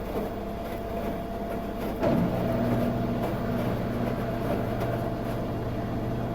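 Washing machine running partway through its wash cycle. About two seconds in, a steady low motor hum starts and the sound gets louder, then holds steady.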